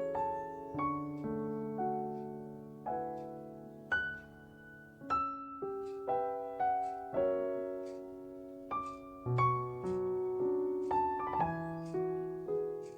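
Background piano music: slow, gentle notes struck one after another, each ringing and fading.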